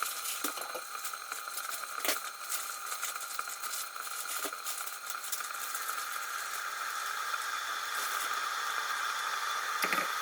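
Seafood in tomato sauce sizzling and simmering in a pan: a steady hiss with scattered sharp crackles and clicks, growing a little louder towards the end.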